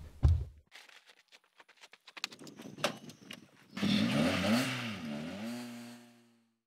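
Honda Civic hatchback's engine revving: the pitch swings up and down twice, then holds steady and fades away. A scatter of faint clicks comes before it.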